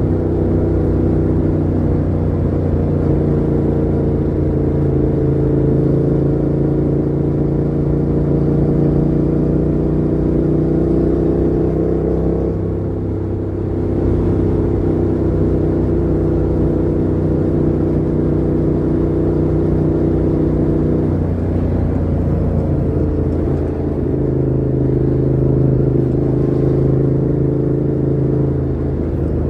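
Yamaha MT-07's 689 cc parallel-twin engine running through a Mivv GP Pro full exhaust with the dB killer fitted, pulling steadily with its pitch slowly climbing. The revs drop suddenly about twelve seconds in and again about twenty-one seconds in, then settle to a steady run.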